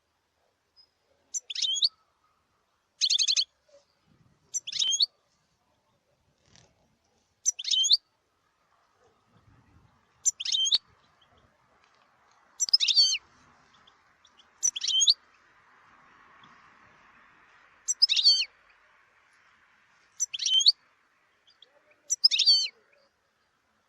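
European goldfinch calling in short, high twittering phrases, about ten of them, each under a second long and spaced roughly two seconds apart.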